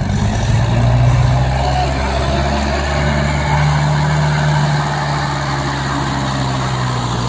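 Mahindra tractor's diesel engine running steadily at low speed, its revs lifting a little about three seconds in.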